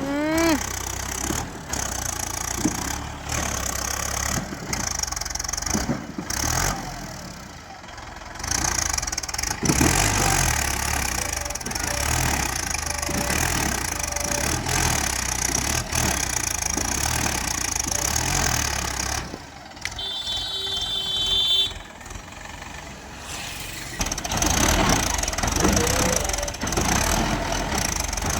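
Diesel engines of tractors and a backhoe loader running, their sound rising and falling, with a dip about a third of the way in and another about two-thirds in.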